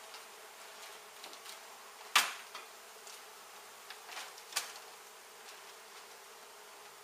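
A mass of honey bees buzzing steadily from an opened hive. A sharp knock about two seconds in, and a few lighter clicks and knocks about halfway through, sound over the buzz.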